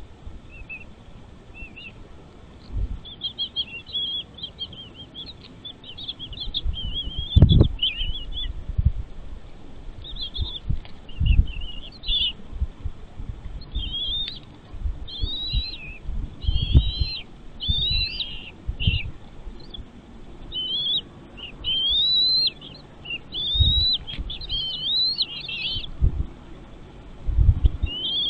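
Small birds chirping in bursts of high, rapid, wavering calls, with scattered dull low thumps, the loudest about seven and a half seconds in.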